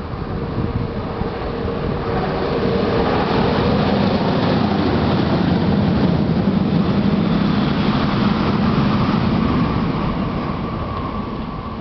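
MTR SP1900 electric multiple unit train passing along the West Rail Line, growing louder to a peak mid-way and then fading, with a humming tone over the rumble.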